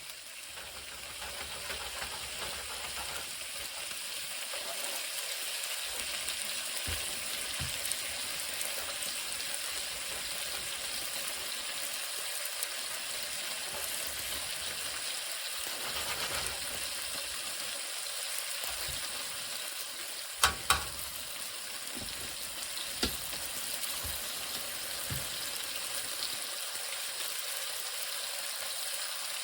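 Chicken frying in a pan with a steady sizzle, nearly cooked through. A few sharp clicks come about twenty seconds in.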